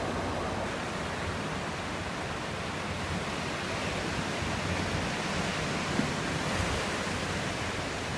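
Steady rushing of ocean surf mixed with wind noise on the microphone, with no gull calls standing out.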